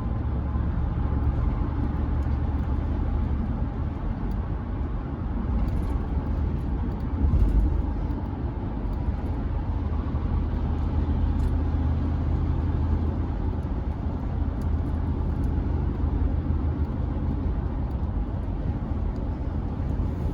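Chevrolet C10 pickup driving, heard from inside the cab: a steady low engine drone with road and tyre noise. There is a brief louder low thump about seven and a half seconds in.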